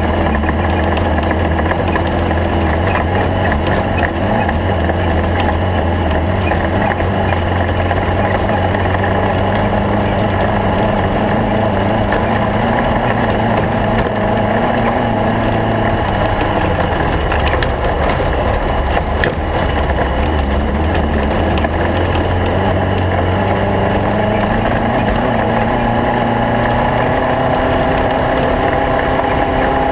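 Air-cooled Volkswagen flat-four engine of a Stock Bug off-road race car running continuously under way over a rough noise. The engine note wavers and climbs near the end.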